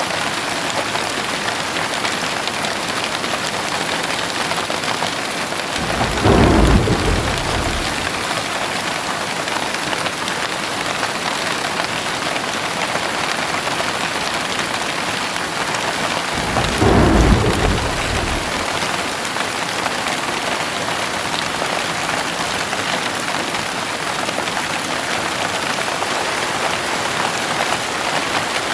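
Heavy rain falling steadily, with two short rolls of thunder, one about six seconds in and another about seventeen seconds in.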